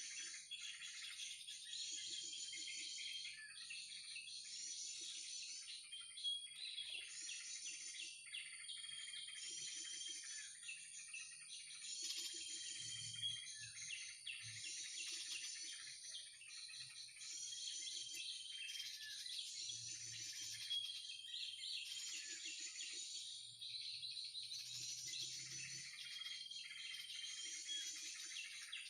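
A looped bird-call lure recording, a mix including yellow-vented bulbul (krucukan) chattering, played through a speaker to draw birds to a trap. The same burst of chirping repeats about every two seconds over a steady high tone.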